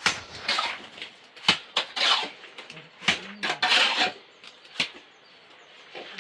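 Irregular sharp knocks and short scraping clatters of hard objects being handled, about a dozen in quick, uneven succession.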